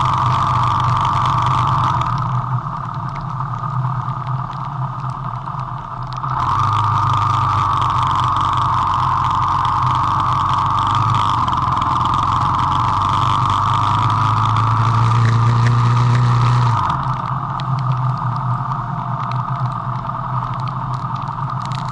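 Car engine and road noise heard from inside the cabin while driving. The engine note climbs steadily as the car accelerates, then drops off suddenly about three quarters of the way through.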